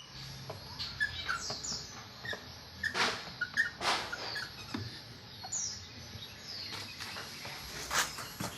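Birds chirping with many short, high calls, some falling in pitch, with a few brief sharp swishes or knocks mixed in.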